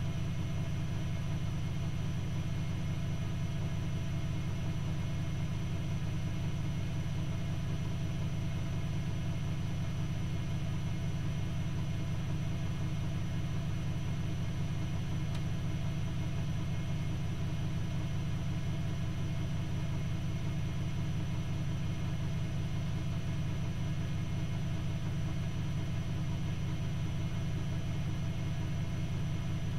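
Privileg Multispar 5110 washing machine with its drum spinning at a steady speed, giving a constant low hum with fixed tones above it.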